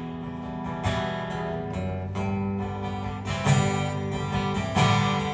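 Acoustic guitar strummed between sung lines of a country song played live, with chords ringing on.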